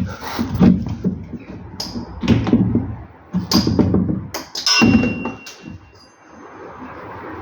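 Irregular metallic clanks and knocks of hand tools working on a car's sway bar end link and its bolt, one of them leaving a short metallic ring.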